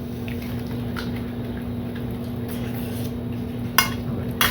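Soft handling sounds of buttering corn on the cob, with two sharp clicks of a utensil against a plate near the end, over a steady low hum.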